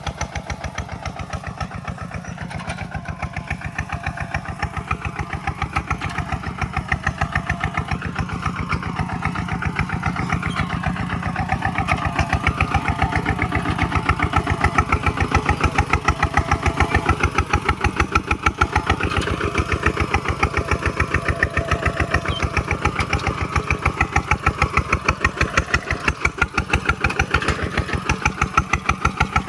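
Kubota single-cylinder diesel engine, as fitted to a walking tractor, running steadily with an even, rapid beat of firing pulses. It grows somewhat louder about halfway through.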